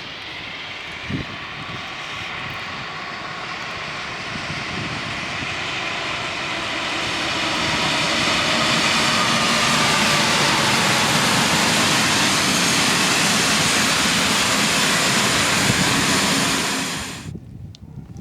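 A train passing at speed, with a steady whine running through the rumble of wheels on rail. It grows louder over several seconds, holds at its loudest, then cuts off abruptly near the end.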